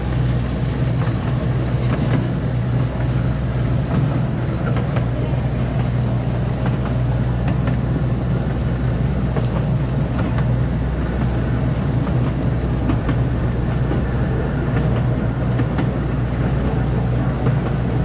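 Miniature ride train running steadily along its track: a steady low hum with rumble from the carriage running gear and occasional faint clicks.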